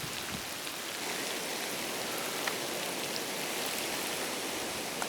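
Steady rain falling, with the odd single drop ticking close by.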